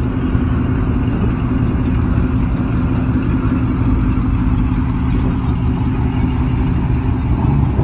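A car engine idling steadily: a low, even rumble with a constant hum.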